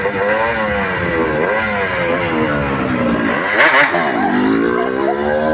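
Motorcycle engine revving up and down four or five times in a row, with a short, loud hissing burst about two-thirds of the way through.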